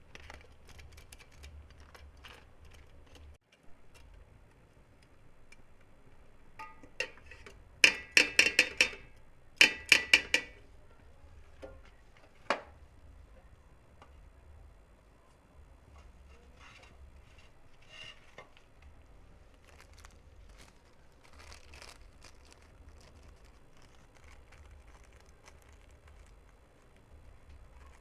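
Metal utensil clattering and knocking against a metal cooking pot, with a quick run of loud, ringing strikes about eight to ten seconds in and lighter scattered clinks before and after.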